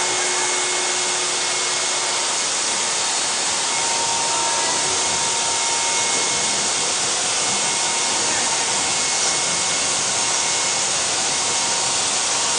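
Hair dryer blowing steadily while drying a freshly bathed dog: an even rush of air with a faint steady motor whine and no change in speed.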